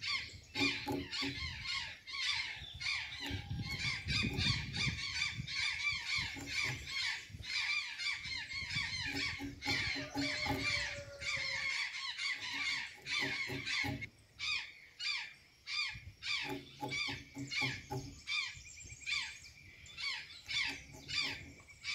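Azure jays calling rapidly and continuously, many calls overlapping, with a brief lull about two thirds of the way through.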